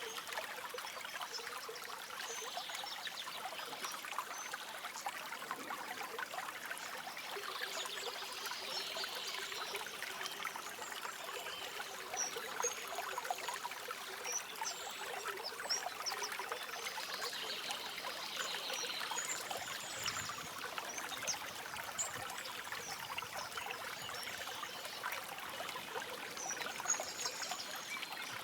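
A shallow stream running steadily over stones, trickling and gurgling. Short, faint high bird chirps come now and then above the water.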